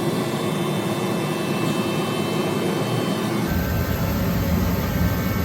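Steady rushing mechanical noise with a faint hum. The deepest part of it is missing for the first three and a half seconds, then comes back.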